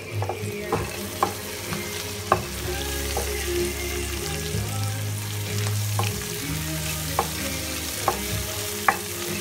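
Sliced onions, garlic, ginger and spices sizzling in hot oil in a wok, stirred with a wooden spatula that knocks against the pan now and then, about eight sharp taps.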